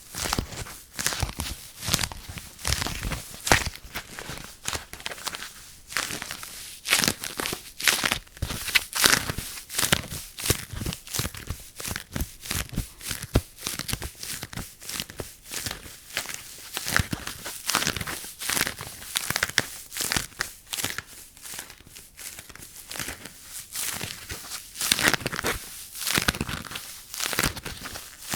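Crinkling and rustling of some handled material: dense, irregular crackly strokes, several a second, with no steady rhythm.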